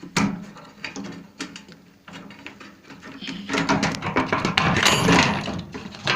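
Sheet-metal and component parts of a microwave oven clicking and clattering as it is taken apart by hand. A sharp knock starts it, scattered clicks follow, and a dense stretch of rattling comes about three and a half seconds in.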